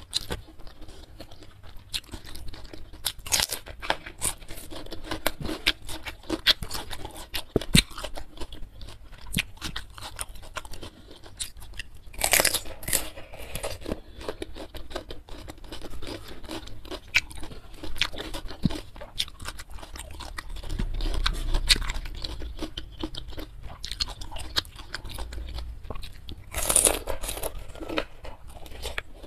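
Wet chewing and mouth noises from eating fish and rice by hand, with crisp crunching bites into a whole raw cucumber, the two loudest about 12 and 27 seconds in.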